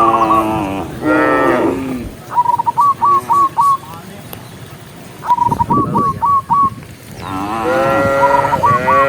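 Cows mooing: two moos in the first two seconds, then a longer, wavering moo from about seven seconds in. Between them a bird calls three times, each a quick run of four or five short whistled notes.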